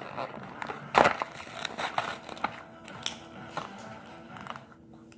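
Small hard plastic toy being handled: scattered clicks and knocks as a tiny Shopkins figure is worked out of a plastic toy car. The loudest click comes about a second in, with smaller ones following.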